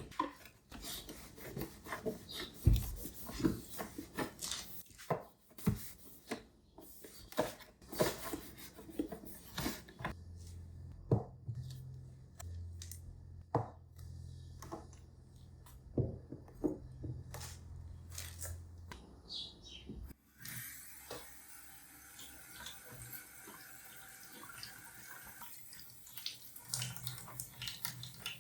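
Household cleaning sounds: a string of knocks and clicks of things being handled and set down, then, about two-thirds through, a steadier wash of water running at a sink.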